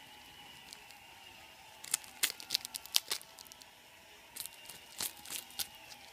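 Crisp crunching and crinkling of dried seaweed, in two short bursts of sharp clicks, the first about two seconds in and the second a little over four seconds in.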